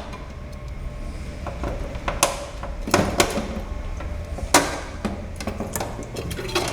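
Metal knocks and clanks, about half a dozen scattered ones with three louder, as the fire-extinguisher bottle and its mounting hardware are worked loose inside the fryer's cabinet. A steady low hum runs underneath.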